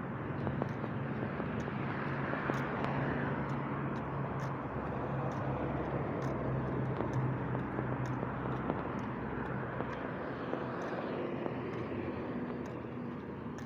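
Car driving along a road: a steady engine hum under road and tyre noise, swelling a little about two to three seconds in.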